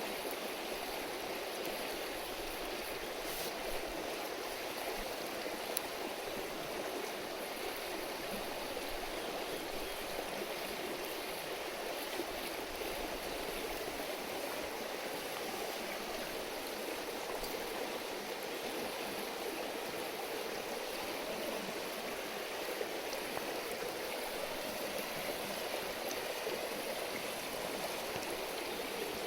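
A river babbling steadily over stones, an even rushing murmur, with a few faint pops scattered through it.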